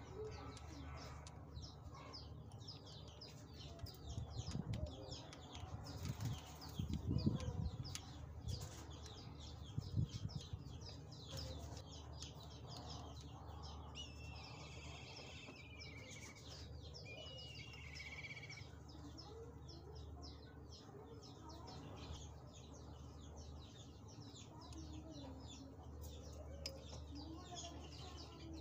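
Small birds chirping and twittering continuously, with a warbling song phrase near the middle. A few low thumps in the first third are the loudest sounds.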